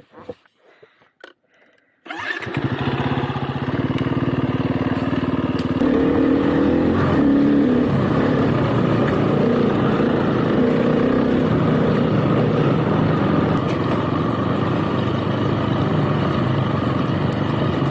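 Motorcycle engine coming in suddenly about two seconds in after near quiet, then running steadily, its note rising and falling as the bike is ridden.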